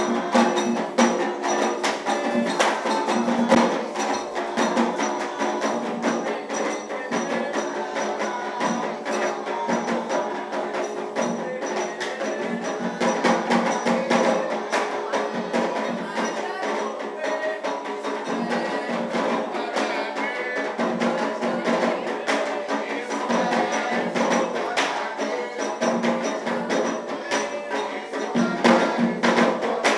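Afro-Brazilian ritual percussion, with hand drums and a struck wood block or bell keeping a fast, unbroken rhythm, under pitched voices or instruments.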